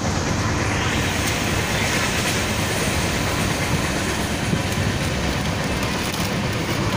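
Passenger train running at speed, heard from inside the carriage beside the window: a steady, loud rumble and rush of the wheels on the rails.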